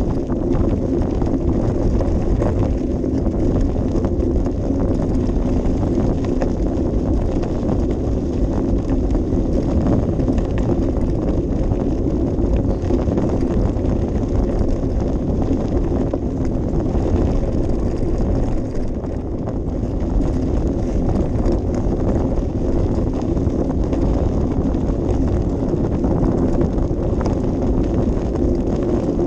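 Steady wind buffeting a GoPro Session's microphone, mixed with the rolling and rattling of a bicycle on an unpaved path.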